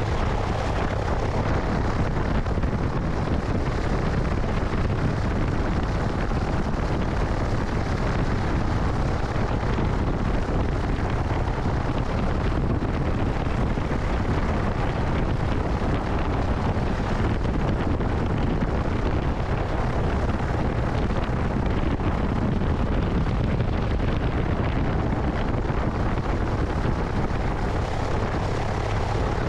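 Cessna 172's piston engine and propeller running steadily in flight, mixed with wind rushing over a wing-mounted microphone.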